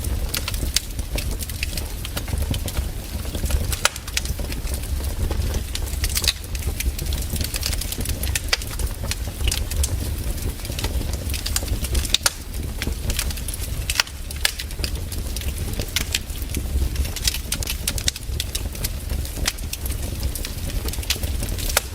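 Wood fire crackling, with frequent irregular pops over a steady low rumble.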